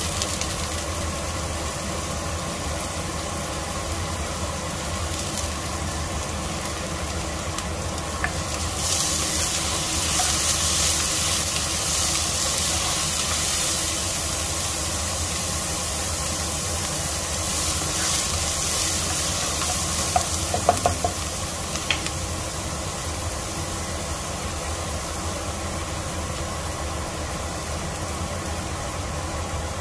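Chopped onion, garlic and ginger sizzling in a nonstick pot while being stirred with a wooden spatula. The sizzle grows louder for a few seconds about a third of the way in, and a few light knocks come about two-thirds through, over a steady low hum.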